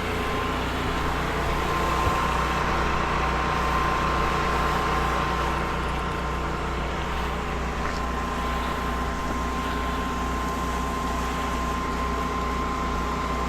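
Soft-wash roof-spraying rig running steadily: the generator and pump engine drone evenly, with a hiss of spray over it and a thin steady tone.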